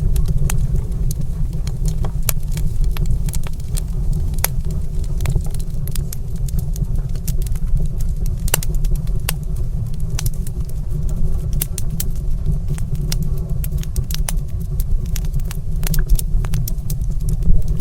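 Wood fire burning in a stone fireplace: a steady low rumble of flame with frequent sharp, irregular crackles and pops, one louder pop near the end.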